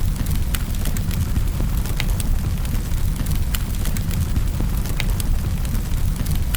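Fire burning in a fireplace: a steady low rumble of the flames with irregular sharp crackles and pops, about two a second.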